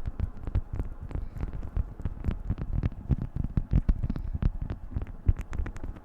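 Beeswax food wrap being crinkled and handled, a dense, irregular crackling.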